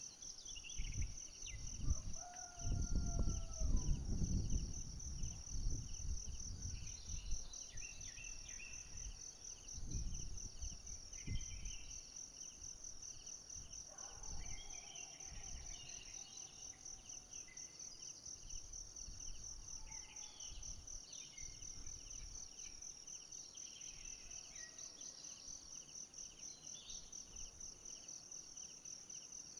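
Forest insects trilling in a steady, fast-pulsing high-pitched chorus, with scattered short bird chirps. A low rumbling noise rises in the first dozen seconds, loudest a few seconds in.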